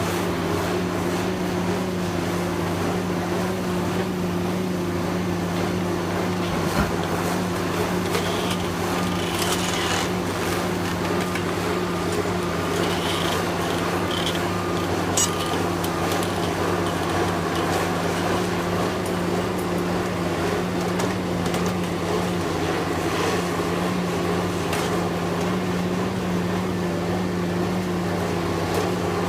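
Engine of heavy demolition machinery running steadily at an even speed, with a few faint knocks and clatters.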